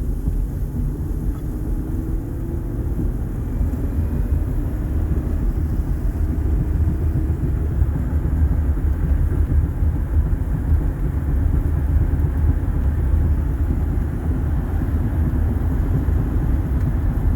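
Steady low rumble of a 2007 Honda Odyssey minivan driving at road speed, heard from inside the cabin: road and tyre noise with the engine running, growing slightly louder a few seconds in. No clunks or knocks come from the suspension, now fitted with new bushings and sway bar parts.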